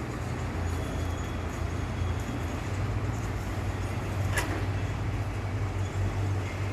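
Heavy dump truck's diesel engine running steadily with a low drone, and a single sharp click about four seconds in.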